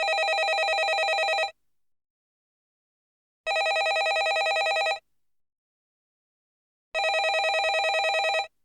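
Landline telephone ringing: three rings of about a second and a half each, a rapid trill, with about two seconds of silence between rings.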